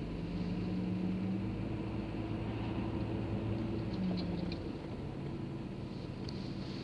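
Car engine running with a steady low hum, heard from inside the cabin while creeping in slow traffic; the pitch shifts slightly about four seconds in.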